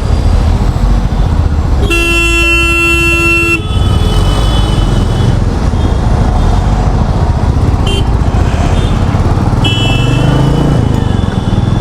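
Royal Enfield Meteor 350's single-cylinder engine running under way in city traffic, with a vehicle horn honking loudly for about a second and a half about two seconds in. Fainter, shorter horns from other traffic sound later.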